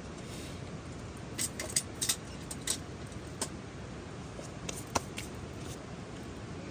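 Steady hiss of autumn rain, with a cluster of about a dozen sharp clicks and crackles between about one and a half and six seconds in.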